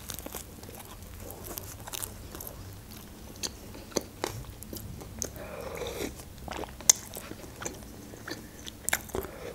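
Close-miked mukbang eating sounds: biting into and chewing a shawarma in toasted bread, with scattered wet mouth clicks.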